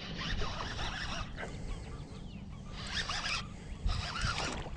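Spinning or casting reel being cranked in short spurts while fighting a hooked bass, a rasping, zipper-like whir that comes and goes.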